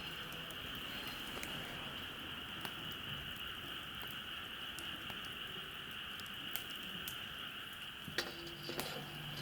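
Campfire burning, with a few faint crackles and pops over a steady high-pitched hiss.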